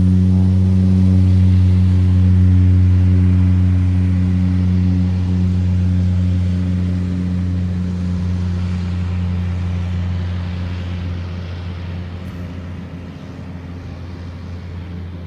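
Light floatplane's propeller engine at takeoff power, a steady low drone that fades gradually as the plane moves away.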